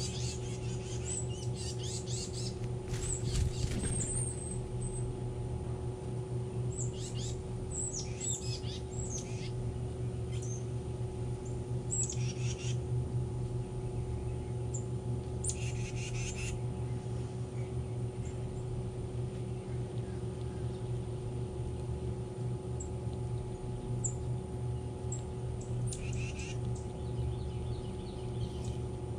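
Birds chirping in short bursts every few seconds over a steady low hum.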